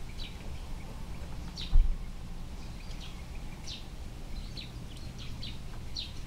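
Short, high, falling bird chirps every second or so over a steady low outdoor rumble, with one low thump a little under two seconds in.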